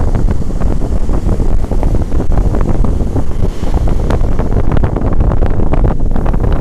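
Strong wind buffeting the microphone: a loud, gusty low rumble with crackling gusts throughout.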